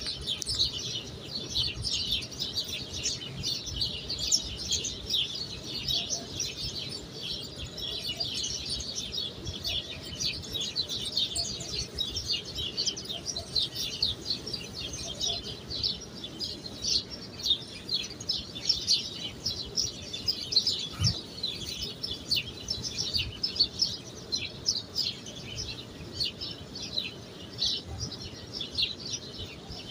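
A flock of small birds chirping, a dense continuous chatter of short high chirps.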